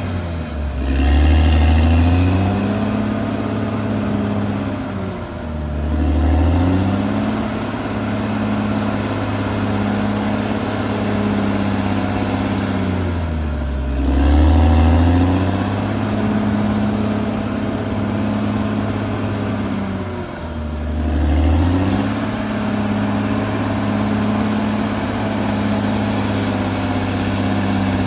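Caterpillar D6R XL bulldozer's diesel engine running steadily. Its pitch sags and recovers four times, and the sound swells at each dip.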